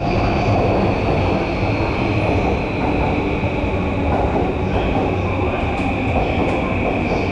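JR Sōbu Line commuter train running, heard from inside the car: a steady rumble with a steady high whine over it.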